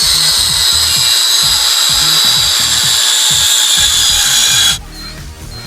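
A power tool working wood, a loud steady high-pitched whine with rasping noise that cuts off suddenly near the end, over background music with a steady beat.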